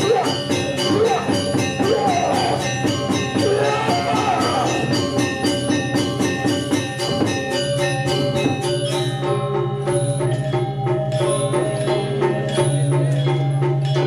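Balinese gamelan ensemble playing fast, steady interlocking strokes on metal percussion with clashing cymbals. A low held tone grows louder in the second half.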